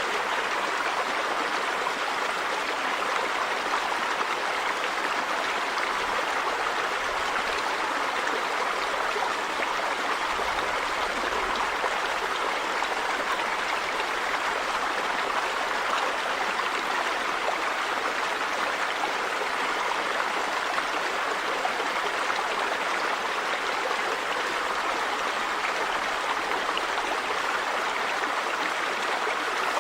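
River water running steadily over rocks: an even, unbroken rush of flowing water.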